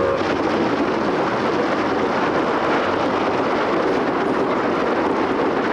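Train running past: a steady rushing roar, with the tail of its whistle trailing off at the very start.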